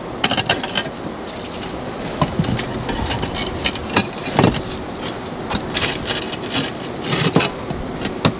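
Roof tiles being handled and set into place: irregular knocks, clinks and scraping as the last tile is fitted.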